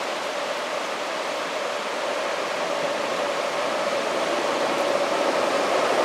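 NS double-decker passenger train pulling in alongside the platform: a steady rushing hiss with a faint running tone, growing louder as the train draws close.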